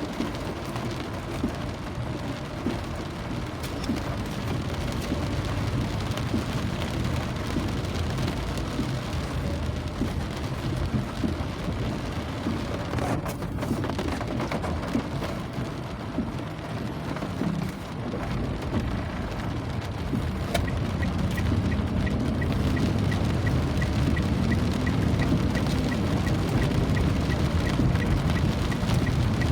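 Steady rain falling, an even hiss over a deep low rumble, growing somewhat louder in the last third.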